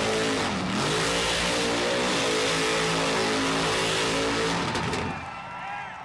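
Vehicle engine revving, its pitch dipping and rising, then running steadily before fading out near the end.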